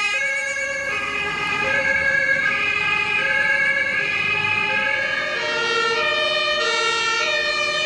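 Two-tone sirens (Martinshorn) of German fire engines pulling out on a call. Several sirens overlap, each stepping back and forth between two pitches about every half second or so.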